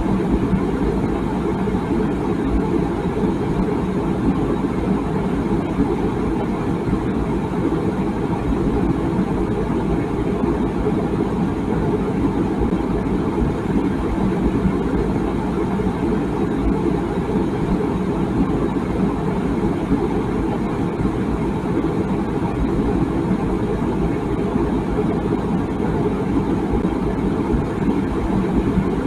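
Water boiling in a tea kettle: a steady, low rumbling with no whistle.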